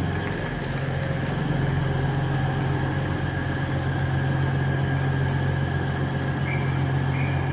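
Diesel multiple unit idling: a steady low engine drone with a thin, steady whine above it, unchanging throughout.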